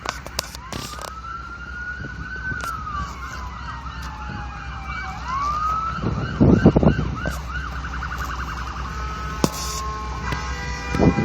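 Emergency vehicle sirens: one wailing slowly up and down, another yelping in fast repeated sweeps. A loud low rumble comes about six seconds in, and a horn sounds near the end.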